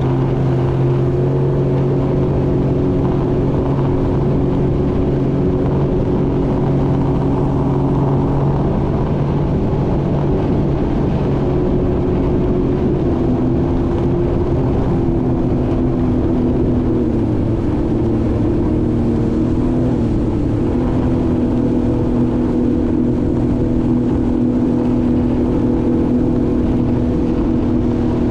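Jet ski engine running steadily at speed under a haze of water and wind noise, its pitch shifting a few times as the throttle changes.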